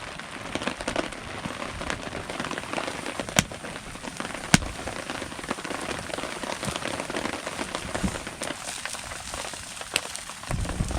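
Steady rain falling on a canopy, with scattered sharp taps of single drops. A louder low sound comes in just before the end.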